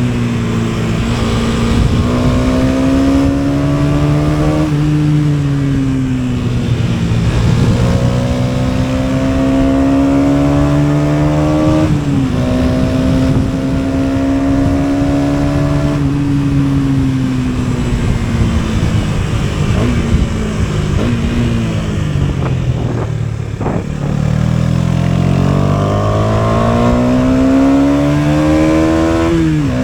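KTM Duke 250's single-cylinder four-stroke engine pulling under way, its note climbing steadily and then dropping at each upshift, about every eight seconds. Near the end the revs fall away as the bike slows, then climb hard again. Wind noise rushes underneath.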